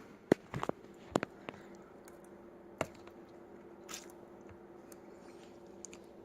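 A person eating ramen noodles: a cluster of short chewing and mouth clicks in the first second and a half, then a couple of isolated clicks, over a faint steady hum.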